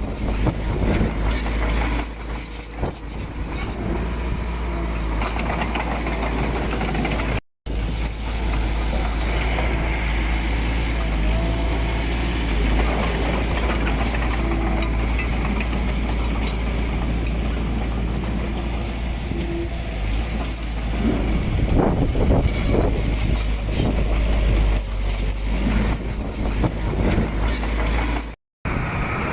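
Heavy diesel earthmoving machinery running steadily with a deep rumble and scattered clanks, cutting out for a moment twice.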